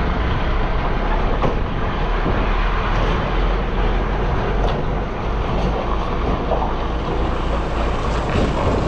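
Steady engine and road rumble inside a lorry cab while it is driving, with some wind noise on the microphone.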